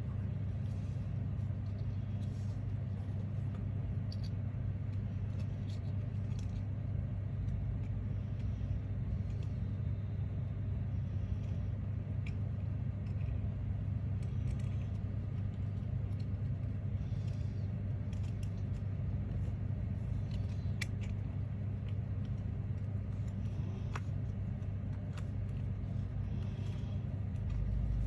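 Steady low hum, with faint scattered clicks and rustles of small crafting materials being handled.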